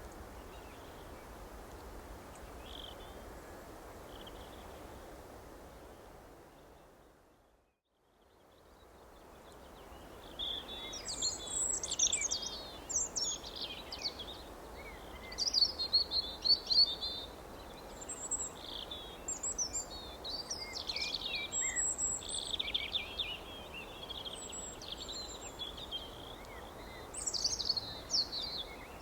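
Several songbirds chirping and singing in quick, overlapping phrases over a steady outdoor hiss. Early on only the hiss and a couple of faint chirps are heard. The sound fades out to silence about eight seconds in, then fades back in with the birds much busier.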